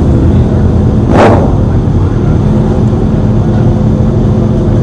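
Sport motorcycle engines running steadily, with one sharp loud bang about a second in.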